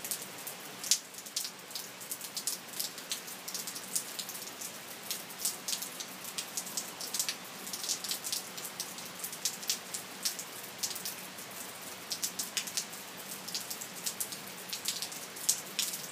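Steady rain falling, with many sharp, irregular drops striking close by.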